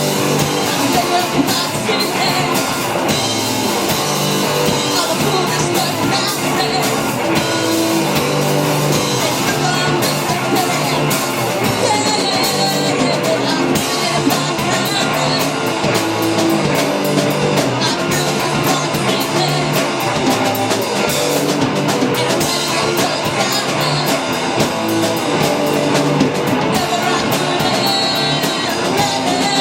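A rock band playing live, with electric guitar, a drum kit and singing.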